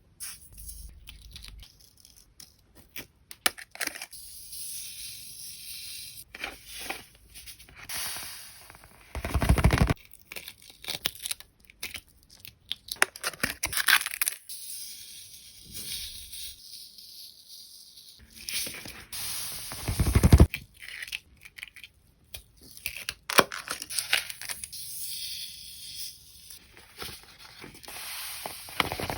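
Hands at work on a sand-art board: sand and paper rustling, scraping and tearing in short irregular strokes. Two louder, fuller bursts come about ten and about twenty seconds in.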